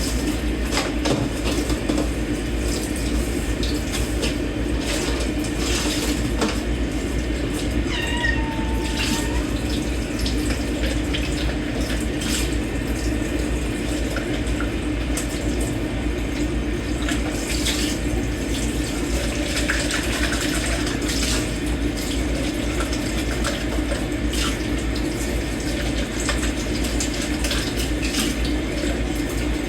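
Dishes being washed by hand in a kitchen sink under a running tap: a steady rush of water with scattered clinks of dishes and cutlery. A cat meows once, about eight seconds in.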